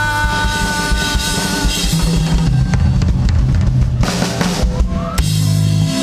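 Live rock band playing without vocals: drum kit with bass drum and snare hits, bass guitar and held electric guitar notes, with a cymbal-like wash around four seconds in.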